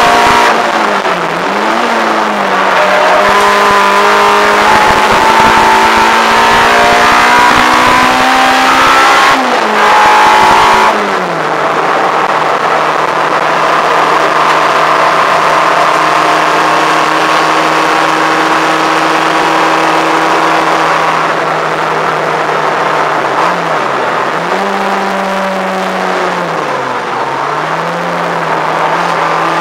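Peugeot 106 GTi's 1.6-litre 16-valve four-cylinder on Jenvey throttle bodies, heard from inside the cabin, running hard at high revs around the track. The engine note dips and climbs again several times. About a third of the way in it drops to a steadier, lower drone.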